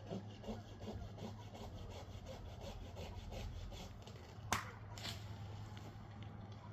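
Hand saw cutting through a tree limb in steady back-and-forth strokes, about three a second, fading out after about four seconds. A single sharp click follows a little later.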